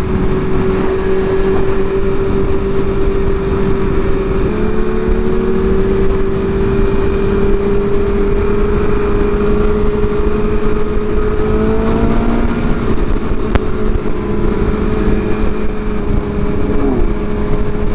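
Sport motorcycle engine running at a steady cruise, its pitch holding nearly level with a couple of small shifts, under heavy wind rush on the rider's microphone.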